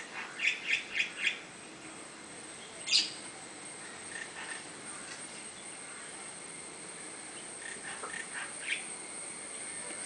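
Bird calls: a quick run of five short notes near the start, a single sharper, louder call about three seconds in, then scattered softer notes and another short run near the end.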